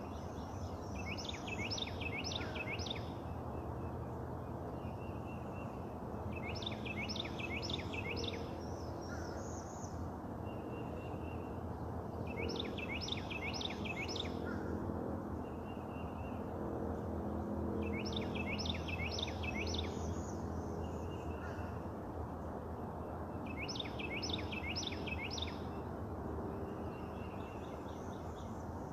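A songbird singing the same phrase over and over, about every five or six seconds: four or five quick high notes, each sliding downward. Short single steady notes come between the phrases, over a steady background hum.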